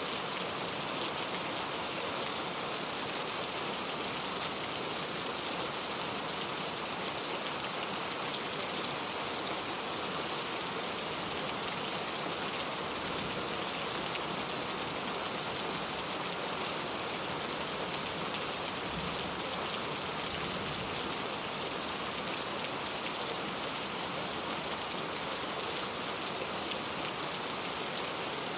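Steady rain falling, an even hiss of many small drops hitting a surface, unchanging throughout.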